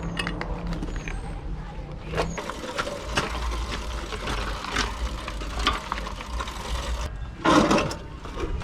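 Scattered clicks and knocks of something being handled, over a low steady hum, with a louder rustling burst near the end.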